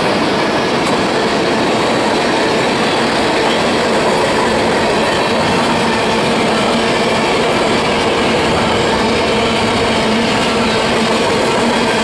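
Steel wheels of a freight train's tank cars and covered grain hoppers rolling past at close range, a steady, loud rumble and rattle on the rails.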